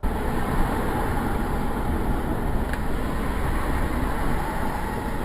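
Steady noise of a moving car, engine and road together, picked up by a dash cam's microphone, with one faint tick about two and a half seconds in.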